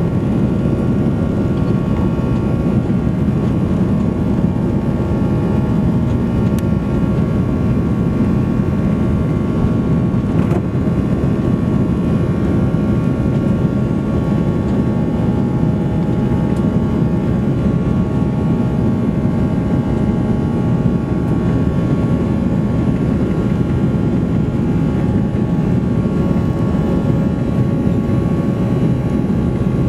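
Airbus A340-300's four CFM56 turbofans at high thrust, heard inside the economy cabin during takeoff: a steady, loud rumble with a few faint steady engine tones above it.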